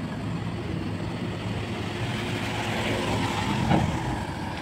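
Garbage truck engine running steadily, with a rushing noise that builds from about two seconds in and a single clunk about three and a half seconds in.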